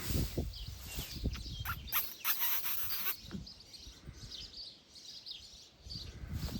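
Small birds chirping over a low rumble of wind on the microphone, which dies away about three seconds in.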